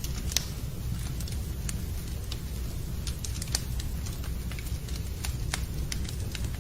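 Wood fire crackling in a fireplace: irregular sharp pops and snaps over a steady low rumble of the flames, the loudest pops about half a second in and again about three and a half seconds in.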